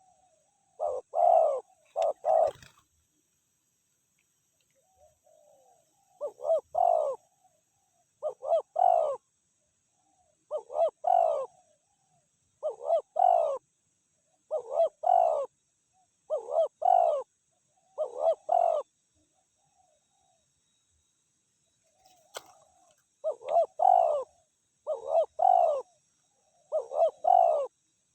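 Spotted dove cooing: a repeated multi-note coo phrase about every two seconds, with two pauses of a few seconds.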